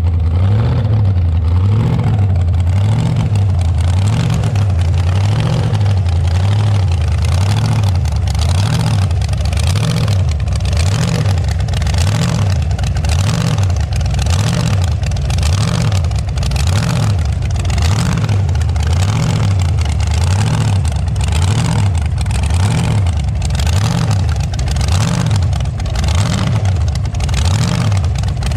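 Hot rod's engine running as the car is driven, a loud, steady low rumble that swells and dips in a regular pulse.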